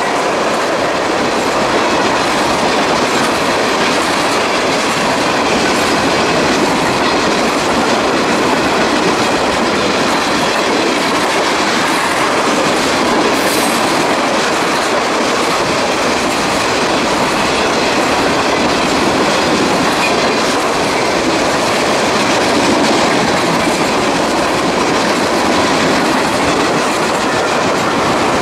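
Freight train cars rolling past, a steady loud clatter of wheels on the rails.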